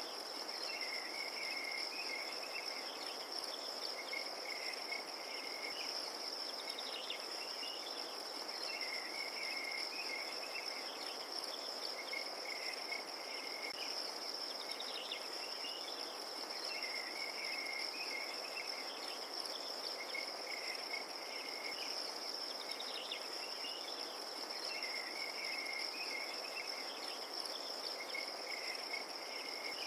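Night chorus of crickets: a continuous high trill, with a second, lower insect call repeating in short phrases every second or two.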